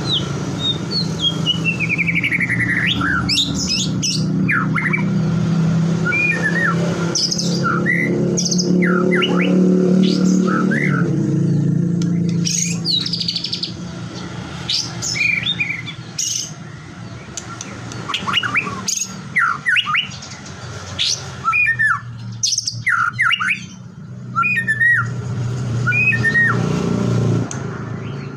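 White-rumped shama singing a long run of varied whistles, sliding notes and quick chirps, with a fast falling trill a few seconds in. A steady low drone runs underneath for about the first thirteen seconds and again near the end.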